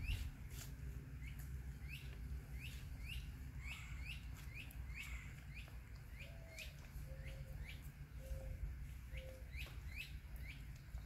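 A bird chirping over and over, in short rising chirps about one or two a second. A few short, lower notes come in around the middle, over a steady low rumble.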